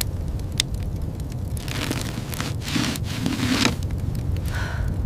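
Fire crackling with sharp pops over a steady low rumble of wind, with a few gusts swelling up and dying away.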